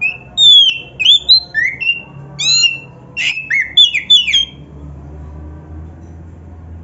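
Oriental magpie-robin (kacer) singing a fast run of varied whistled notes and sliding, squawky phrases. The song breaks off about four and a half seconds in.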